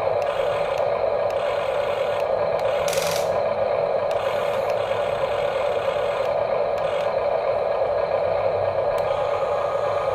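Small electric motors of radio-controlled construction models running steadily, with scattered clicks and a brief scrape about three seconds in.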